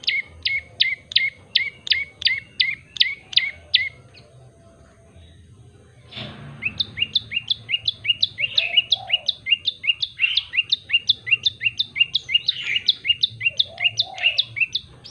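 Common tailorbird singing: a fast, loud series of sharp repeated notes, about five a second, each dropping steeply in pitch. The song breaks off about four seconds in and resumes after a pause of about two and a half seconds, faster and denser, running on to the end.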